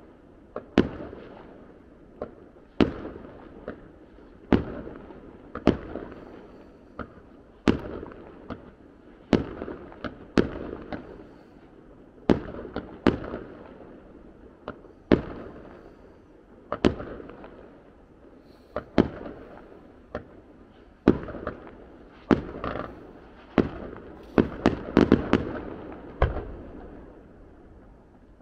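Aerial fireworks exploding: a sharp bang every second or two, each trailing off in a rolling echo, with a quick run of several bangs near the end.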